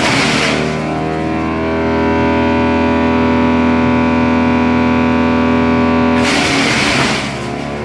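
Wood chipper running with a steady, heavy drone, broken twice by harsh bursts of chipping noise, at the very start and about six seconds in. After each burst the drone drops in level and shifts briefly as the machine takes the load.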